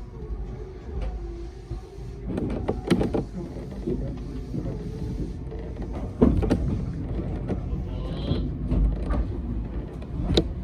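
Hakone Tozan Railway train running on its track: a steady hum, then from about two seconds in a low rumble with sharp knocks and clacks from the wheels over the rails.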